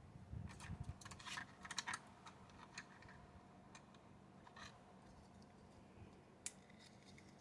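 Faint scattered clicks and light taps, bunched in the first three seconds, then one sharper click about six and a half seconds in: small model parts and tools being handled and pressed on a work surface.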